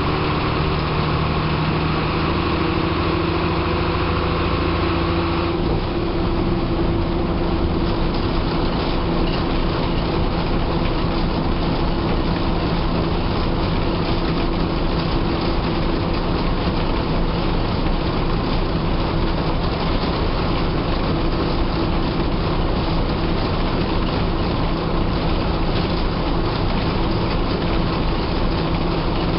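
State-bus diesel engine running steadily with road and body noise, heard from inside the driver's cabin; the engine note changes about five and a half seconds in.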